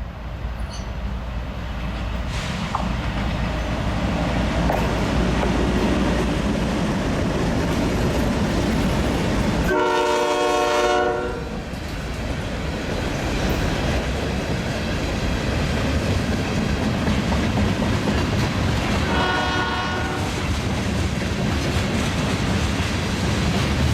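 Diesel freight train running past with a steady heavy rumble that builds over the first few seconds. The locomotive's air horn sounds a long chord about ten seconds in and a shorter one just before twenty seconds, and starts another right at the end.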